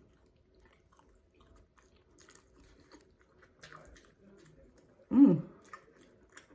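Close-up chewing of a red hot sausage, with soft wet mouth clicks. About five seconds in comes one brief, loud voiced sound that falls in pitch.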